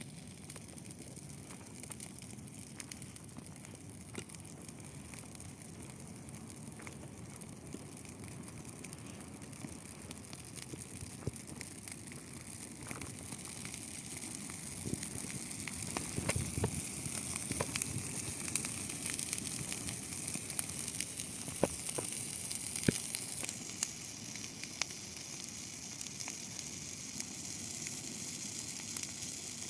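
Dry grass bonfire burning: a steady hiss with many sharp crackles and pops, getting louder about halfway through.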